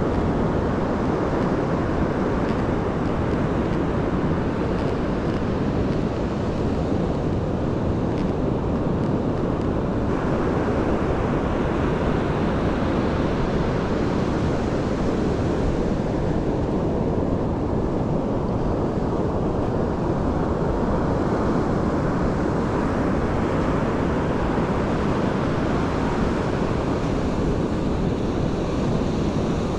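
Pacific Ocean surf washing in as a steady, continuous rush, with wind buffeting the microphone.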